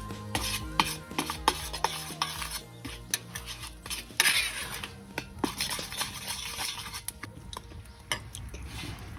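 A metal utensil stirring and clinking against a cooking pot, many sharp clinks in irregular succession, with a brief hiss about four seconds in.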